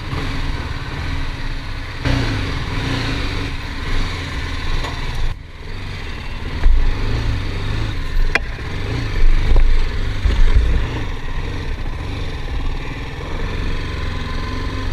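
BMW G 310 GS's single-cylinder engine running, its sound rising and falling with a few louder swells around the middle.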